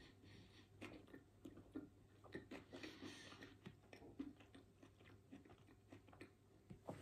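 Faint, close-miked chewing of a soft white-bread sandwich with cheese slices and cooked red peppers: a run of small, irregular mouth clicks over a low steady hum.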